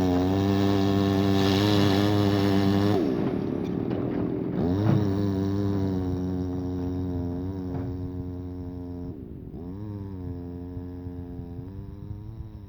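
A large engine running on a construction site, its pitch dipping and rising again a few times as the revs change, growing gradually quieter toward the end.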